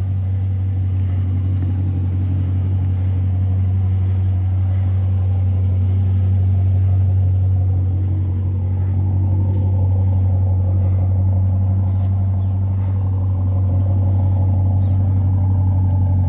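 Dodge Challenger's Hemi V8 idling steadily, a deep even rumble.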